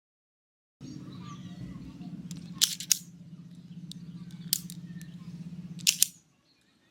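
Sharp mechanical clicks, four of them, over a steady low hum; the hum stops near the end.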